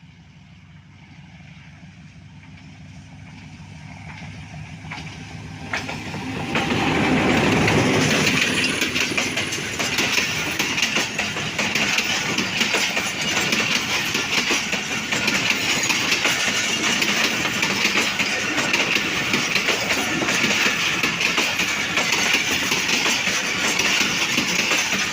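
A train passing close by on the adjacent track, heard from a locomotive cab. Its noise swells over several seconds as it approaches, then becomes a long, loud rush of wheel and carriage clatter. The rush drops away suddenly at the very end.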